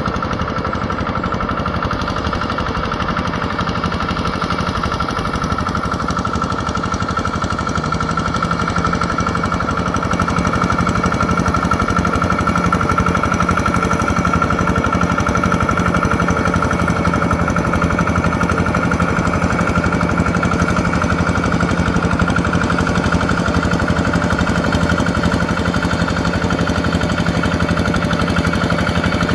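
Yanmar EF725T tractor's diesel engine running steadily with a rapid clatter. About eight to ten seconds in it picks up a little, growing slightly louder with a deeper note.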